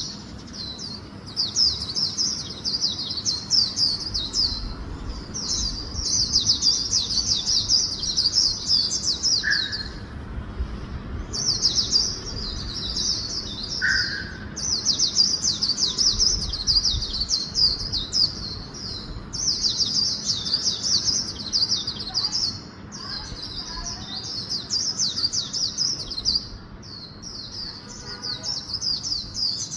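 White-eye (vành khuyên) singing a long, fast, high twittering song in runs of several seconds with short breaks, the rapid 'líu cựa' style of song with a magpie-robin-like ending that Vietnamese keepers prize.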